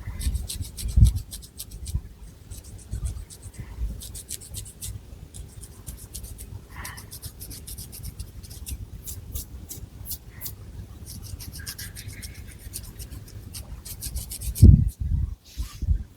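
Long fingernails scratching through thick hair and over the scalp in quick runs of crisp, dry strokes. A low thud about a second in and a louder one near the end, from hands handling the hair close to the microphone.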